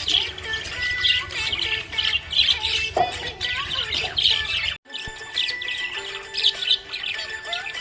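A flock of small pet parrots chirping and squawking densely and continuously. About two-thirds of the way through there is a brief cut-out, after which the chatter goes on without the low pulsing that lay under it before.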